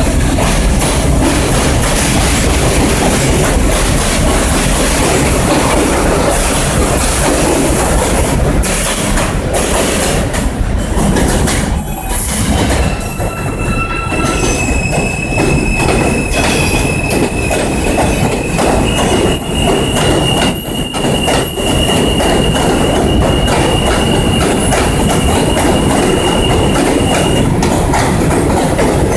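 New York City subway train running past at close range, its wheels rattling over the rails, with a steady high-pitched wheel squeal setting in about halfway through and holding.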